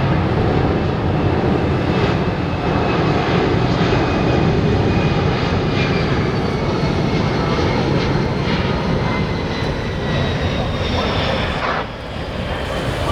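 C-17 Globemaster III's four turbofan engines running loud as the transport flies past, a steady roar with a faint high whine that slowly falls in pitch. The roar dips briefly near the end.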